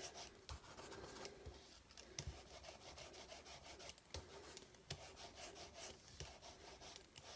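Foam sponge roller rolled lightly over card stock to apply ink, a faint continuous rubbing with a few light clicks.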